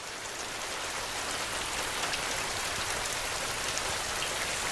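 Steady rain falling on a surface: an even hiss with faint scattered drop ticks, swelling slightly over the first second.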